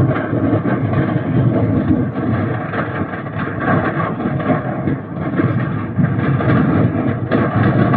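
A large house fire burning: a steady, loud roar with dense crackling.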